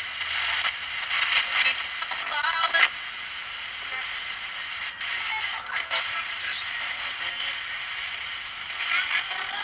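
Spirit box sweeping through radio stations: steady static hiss broken by brief snatches of voices and music in the first few seconds and again near the end, with a few short clicks in between.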